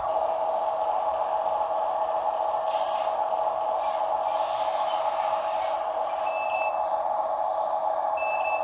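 Toy RC dump truck running, its electric motor giving a steady whine. Two short high beeps come in the second half.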